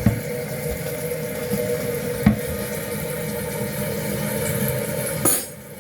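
Toilet tank fill valve hissing as water refills the tank, with a couple of light knocks. A click comes about five seconds in, and the hiss stops abruptly.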